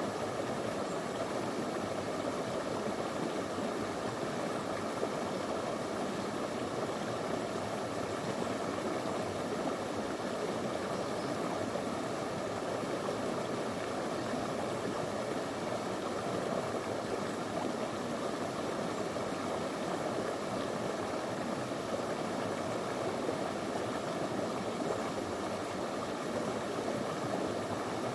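Small rocky river flowing over stones: a steady, unbroken rush of water.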